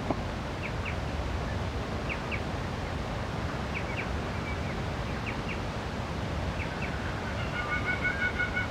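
Outdoor ambience: a steady rush of background noise, with a bird giving short paired chirps every second or two. Near the end a thin, steady, higher tone joins in.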